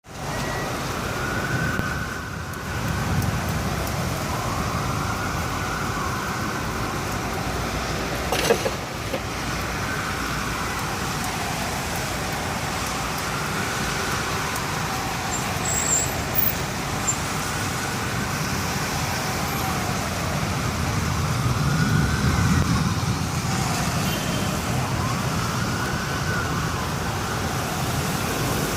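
Steady hiss of heavy rain with a siren wailing, rising and falling about every three and a half seconds. Low rumbles swell twice, and there is one sharp knock about eight seconds in.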